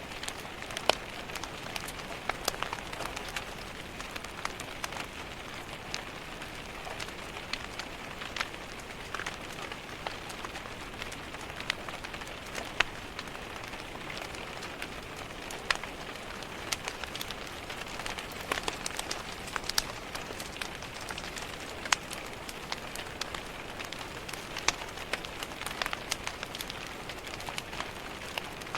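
Steady rain tapping on window glass, with scattered sharp crackles and pops from a wood fire in a fireplace.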